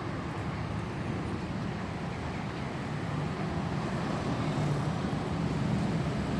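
Steady low rumble of road traffic, slowly growing louder toward the end.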